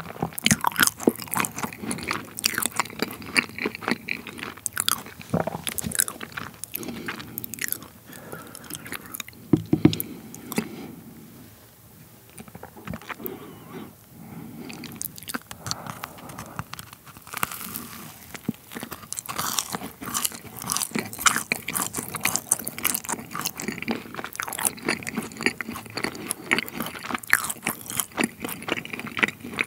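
Close-miked chewing with crisp crunches and clicks. About halfway through there is a quieter pause, then a bite into a cream-filled macaron followed by more crunchy chewing.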